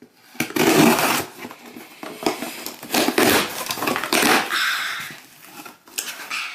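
Scissors cutting open a package, with the wrapping crinkling and rustling in a series of noisy bursts.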